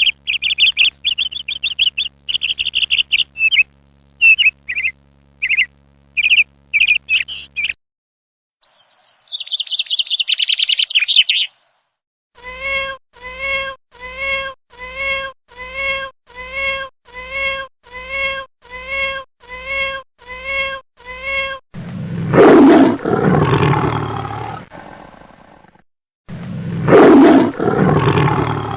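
A run of different bird calls, one kind after another. First a string of short, high chirps for about eight seconds. After a brief gap comes a three-second rattling trill. Then about seventeen evenly spaced pitched calls at roughly two a second, and near the end two long, loud, harsh calls a few seconds apart.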